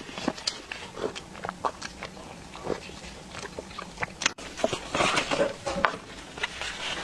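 Close-miked chewing and lip-smacking of someone eating creamy pastry, with many short wet clicks and a denser run of mouth noises about five seconds in.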